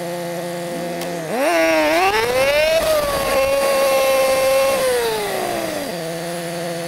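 Yamaha YZF-R6 inline-four sport bike engine idling. About a second in it revs up as the bike pulls away from the light, holds a steady higher note, then drops back to idle about six seconds in.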